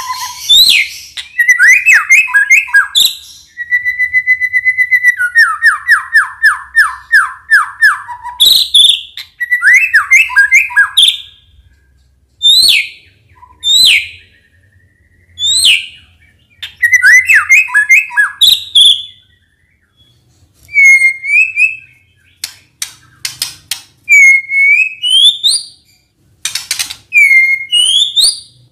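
White-rumped shama (murai batu) singing a varied song: clear whistles, fast trills, sweeping notes and rapid runs of repeated notes, delivered in phrases separated by short pauses.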